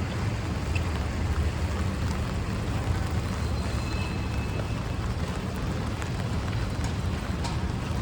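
Rainy city street ambience: a steady low rumble of traffic under an even hiss of rain.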